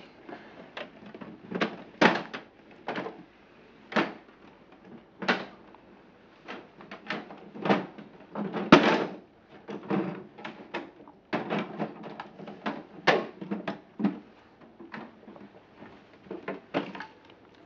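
Toy garbage trucks and bins, hard plastic, knocking and clattering as they are handled, in irregular clacks about a second apart.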